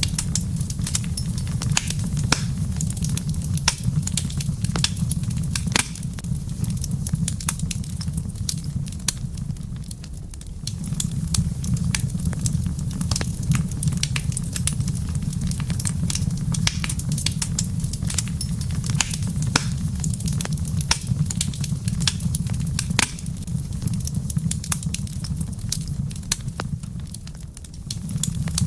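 Wood fire in a fireplace crackling, with dense irregular pops and snaps over a steady low rumble; the rumble dips briefly twice.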